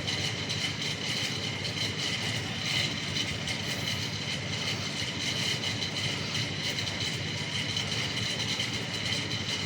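Bauknecht WAS 1400 washing machine running steadily, a low rumble under several steady high whining tones.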